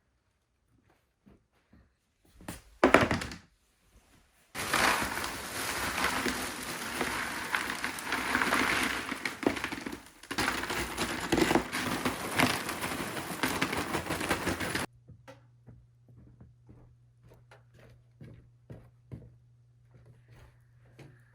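A loud thump, then about ten seconds of dense rustling and clattering that starts and stops abruptly, then scattered light knocks over a steady low hum: someone handling and setting out gear in a small room.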